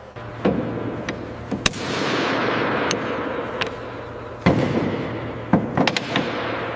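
Heavy metal parts clanking and scraping: a dozen or so sharp knocks at uneven intervals over a rushing noise, with a steady low hum underneath.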